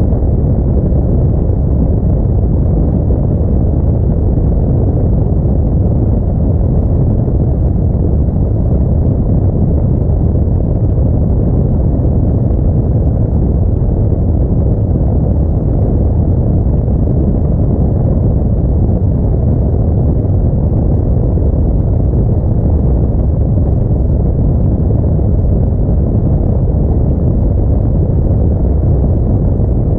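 Steady low rumble of a car driving on the road: tyre, engine and wind noise of an Audi A4 holding an even pace, with no change in pitch or loudness.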